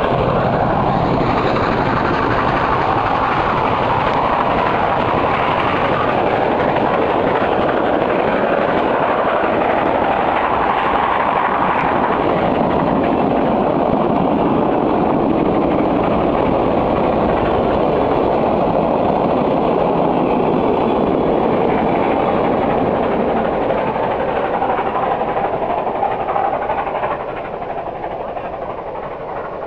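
A long train of railroad cars rolling past close by, a steady rumble and rattle of wheels on rail that drops in level near the end.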